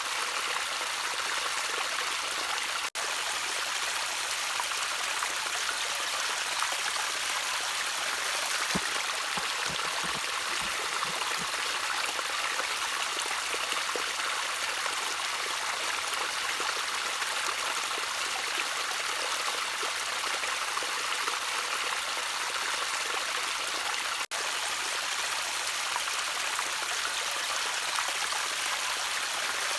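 Gently trickling stream water, a steady running-water hiss that cuts out for an instant twice.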